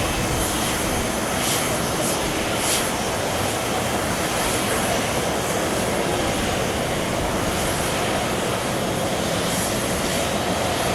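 Boeing 777-300's Pratt & Whitney PW4090 turbofan engines running steadily: a constant roar with a thin high whine above it.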